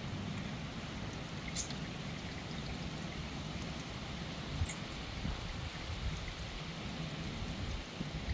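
Steady rain falling, with a low rumble underneath and a few brief, high bird chirps.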